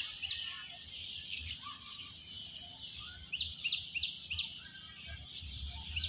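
Birds chirping in a dense chorus, with a quick run of four sharp chirps about three and a half seconds in, over a low background rumble.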